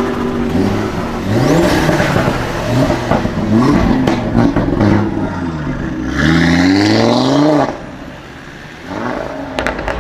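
Sports car engine revved repeatedly, its pitch climbing and falling in quick blips, then one longer rising rev that cuts off suddenly about three-quarters of the way through.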